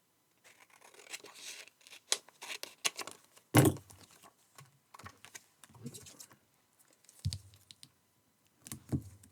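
Paper and card scraps being handled and shuffled on a craft table: rustling and scraping with small clicks, and a few soft knocks, the loudest about three and a half seconds in.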